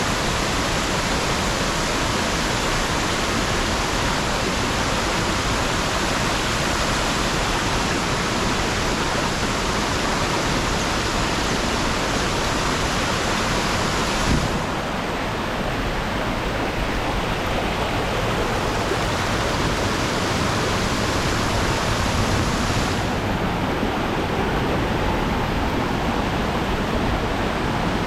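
Steady rushing of a waterfall at low water, the flow pouring over only its left edge. A brief knock comes about halfway, after which the rush sounds duller, and it dulls again later on.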